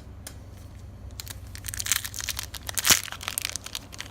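Foil Pokémon booster pack wrapper crinkling and being torn open by hand, starting about a second in with a run of sharp crackles and one louder snap near the end.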